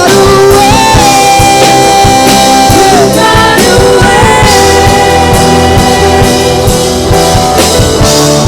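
Worship band music, with drums and long held sung notes over the band.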